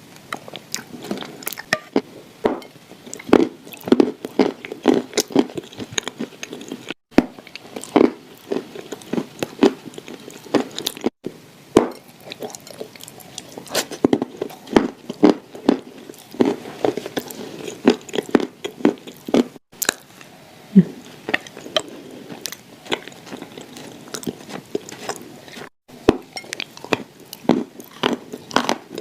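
Close-miked biting and crunching of clay shortbread cookies, a dense run of crisp, crumbly crunches with chewing between bites.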